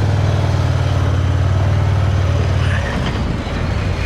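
Motorcycle engine running at a steady pace while riding, with road and wind noise; the engine note dips briefly about three seconds in, then picks up again.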